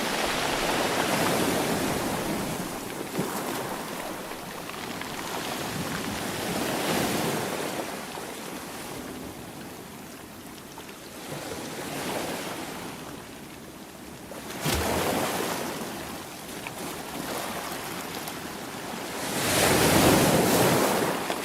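Sea waves breaking and washing on the shore, surging and falling back in slow swells every few seconds, the biggest one near the end. A single short knock sounds about two-thirds of the way through.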